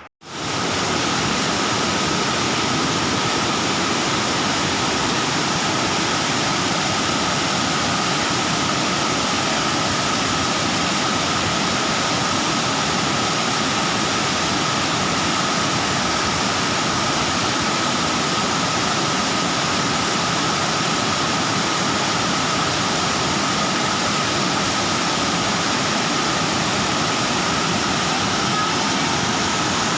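Waterfall: a steady, loud rush of falling water without a break.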